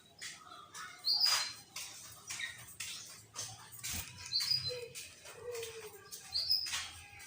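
Short, high bird chirps, three or four of them, among scattered rustling and knocking noises.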